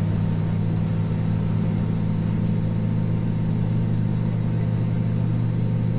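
Steady low hum of an Airbus A320neo idling on the ground with its engines just started, heard from on board, with a few steady low tones under it.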